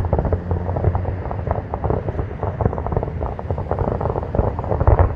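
Distant fireworks finale barrage: a rapid, continuous run of booms and crackles blending into a rumble, with a few heavier bangs near the end. Wind buffets the phone's microphone.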